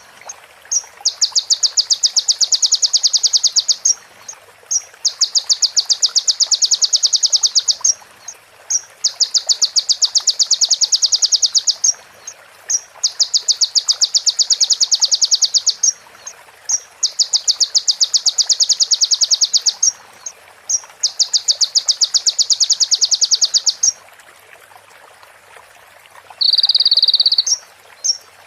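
Kolibri ninja (sunbird) singing imitated female prenjak (prinia) phrases: six rapid, dry, high trills of about three seconds each, about a second apart, with short chips in the gaps. After a pause near the end comes a shorter, lower buzzing trill.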